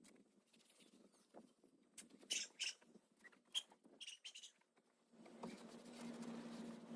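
Faint scattered scratching and clicking with a few short, high squeaks, then a low steady hum comes in about five seconds in.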